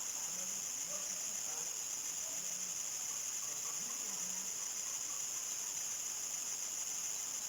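Crickets chirring in a steady, unbroken high-pitched chorus at nightfall, with faint far-off voices underneath.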